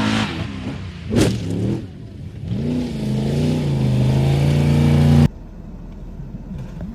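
Car engine revving: its pitch sinks, a sharp crack sounds about a second in, then the engine revs up again and holds high until the sound cuts off suddenly about five seconds in.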